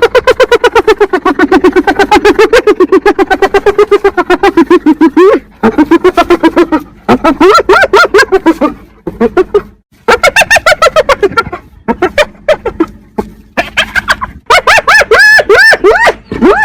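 Spotted hyena giggling: fast, cackling runs of short pulsed calls that rise and fall in pitch. The calls come in several bouts broken by brief pauses.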